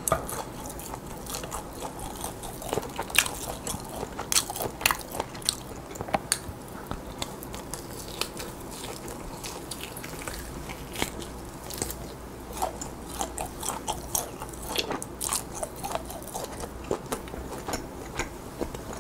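Close-miked biting and chewing of grilled lamb on the bone, with many irregular sharp clicks and crunches of tearing meat and mouth sounds.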